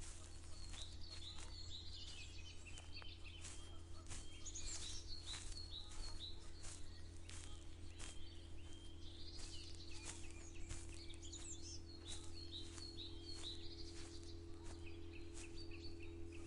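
Several songbirds chirping and trilling in a dawn chorus, with short crunching footsteps about once or twice a second, over a steady low hum.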